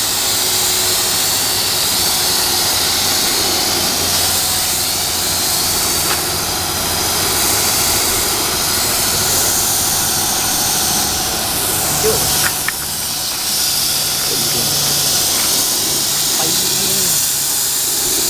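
Steady, loud hiss of a compressed-air paint spray gun, with a couple of short clicks about twelve seconds in.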